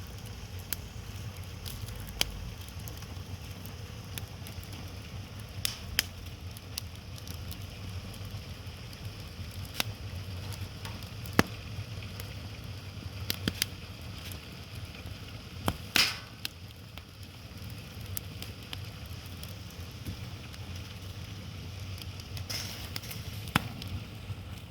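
Wood fire crackling, with irregular sharp pops of burning firewood over a steady low rumble; one louder pop comes about two-thirds of the way through.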